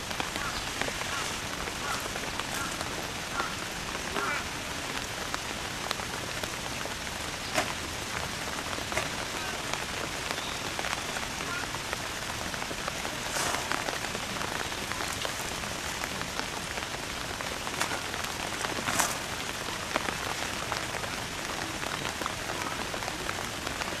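Steady hiss of falling rain with scattered sharp drip ticks.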